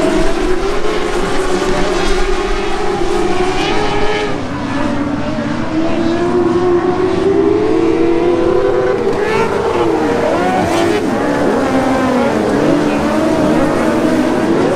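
Several TQ speedway race cars running together on the track, their engine notes rising and falling and overlapping as they circulate.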